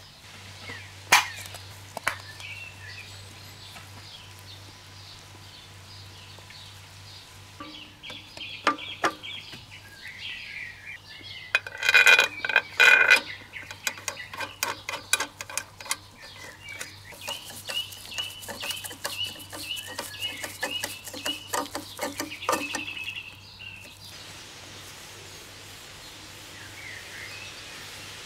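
Birds calling: a burst of loud squawks about twelve seconds in, then a run of short repeated calls, mixed with scattered clicks.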